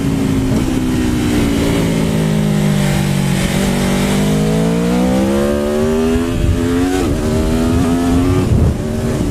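Aprilia Tuono V4 Factory's V4 engine on the move, heard over wind rush: the revs sag for a few seconds, then climb strongly as the rider accelerates, with brief dips that sound like quick gear changes. Above about 5,000 rpm the exhaust valve opens and the engine comes to life.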